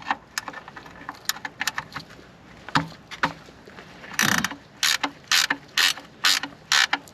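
Ratchet wrench working an oil pan drain plug loose. Scattered clicks and knocks come first, then from about four seconds in a steady run of ratcheting strokes, about two a second.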